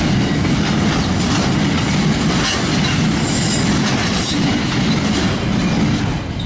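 Freight train wagons rolling past close by: a steady heavy rumble with wheels clicking over the rail joints, easing off slightly near the end as the last wagon clears.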